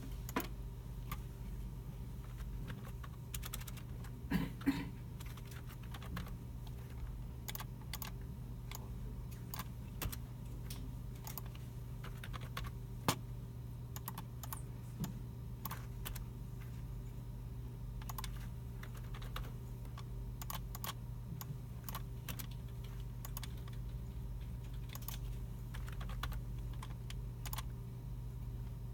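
Computer keyboards being typed on and mice clicking in a computer room, in irregular bursts of key clicks with a few louder knocks, over a steady low hum.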